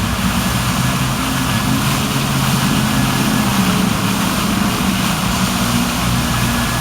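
Water fountain rushing steadily, with a low hum underneath.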